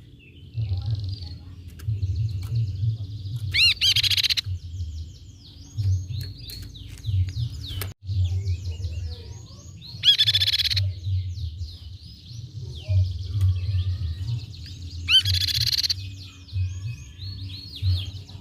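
Crescent-chested babbler (tepus pipi perak) calling and singing: a loud, short call about every six seconds, with runs of quick falling notes between them, over a low rumble.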